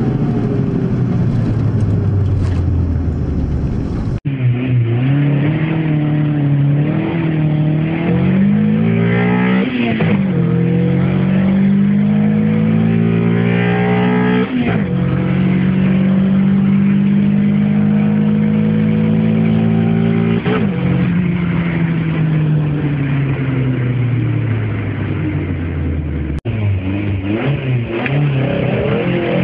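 Renault Clio 16S's 1.8-litre 16-valve four-cylinder engine, heard from inside the cabin, revving hard as the car is driven through the gears. The engine note climbs and then drops sharply at a couple of upshifts, holds high for several seconds, then falls away. The sound jumps abruptly twice where the recording is cut.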